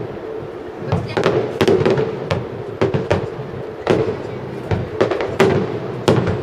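Aerial firework shells bursting in quick, irregular succession: a string of sharp bangs, at times several a second.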